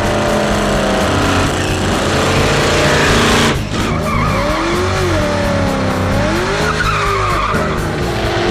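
Muscle car's V8 engine revving hard with tyres squealing in a burnout; the pitch climbs for about three seconds. After a sudden break, the revs swing up and down.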